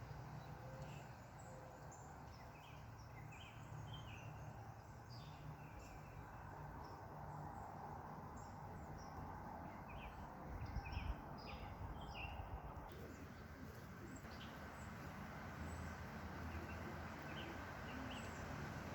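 Small birds chirping in short calls over a steady low background rumble, the chirps growing sparser in the last few seconds.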